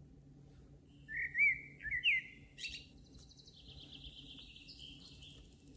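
A songbird singing: a few short whistled notes that slide up and down about a second in, then a long rapid trill lasting about two and a half seconds.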